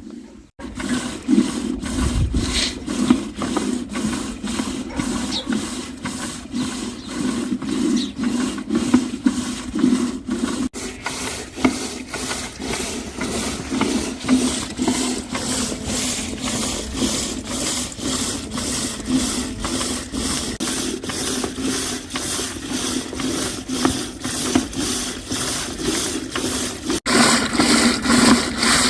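Rhythmic back-and-forth rubbing and scraping, as of a wooden hand tool or implement being worked by hand, at about two strokes a second.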